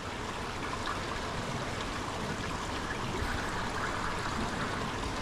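Water rushing steadily over rock in a small winter waterfall.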